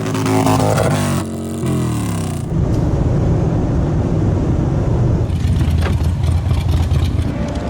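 Motorcycle engines revving, their pitch rising and falling. About two and a half seconds in, the sound switches abruptly to a steady, deep engine rumble.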